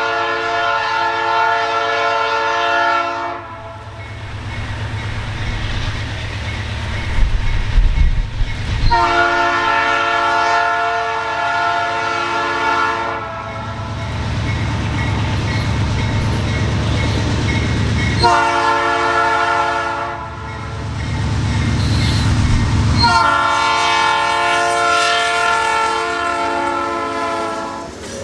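A Nathan P3 air horn on a CN GE C44-9W diesel locomotive sounds the grade-crossing signal in four chords: long, long, short, long. Under it runs the low, steady rumble of the approaching diesel locomotives.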